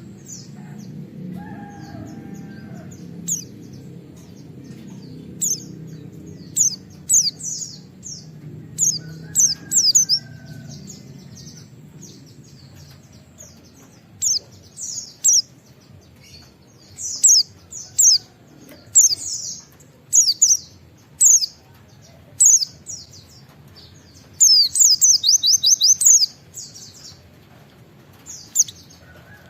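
A white-eye (pleci) singing in short bursts of high, fast, sweeping chirps, the shrill 'wit wit' calls, with a longer run of rapid notes near the end. A faint low rumble runs underneath.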